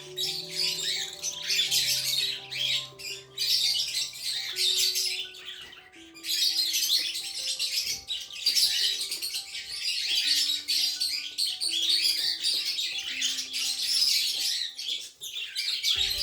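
Budgerigars chirping and chattering in a dense, continuous warble, over background music of slow, held notes.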